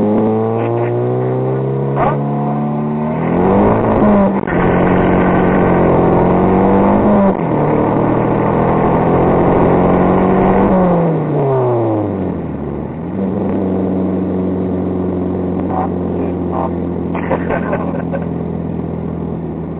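2004 Mitsubishi Lancer Ralliart's four-cylinder engine, newly fitted with an aftermarket turbo, revving: its pitch climbs in the first second and again about three seconds in, holds high with a rushing noise over it until about eleven seconds in, then drops back to a steady lower run.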